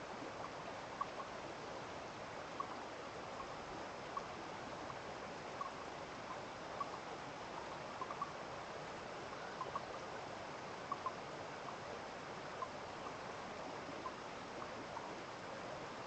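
A steady trickle of running water after rain, with small sharp plinks popping up irregularly, about one a second.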